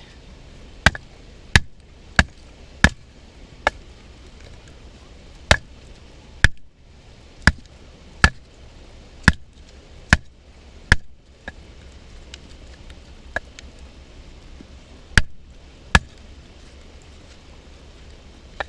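Batoning firewood: a wooden baton knocks on the spine of a Mora knife driven into a log to split it. About fifteen sharp, separate knocks come at an uneven pace of roughly one a second, with a longer pause near the end.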